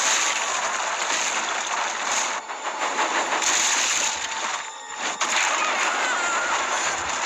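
Sound effect of a rockslide pouring down: a dense rushing, crashing noise of tumbling rocks as a small engine races along the crumbling track, dropping away briefly for a moment in the middle.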